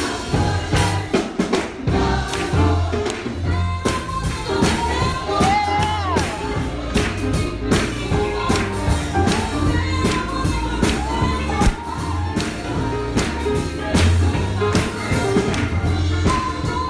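Gospel congregation and choir singing over a full band, with a strong bass line and a steady beat of drums and tambourine.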